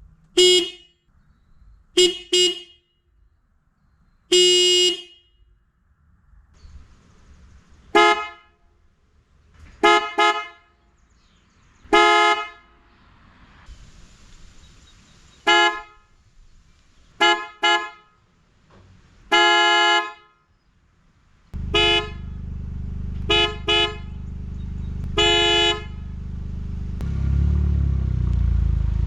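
2024 GR Corolla's car horn, the stock single-trumpet horn and the PIAA 85115 twin-tone bass horn sounded in turn. It goes in four rounds, each a short honk, a quick double honk and a long honk. From about two-thirds through, the car's engine idles underneath, growing louder near the end.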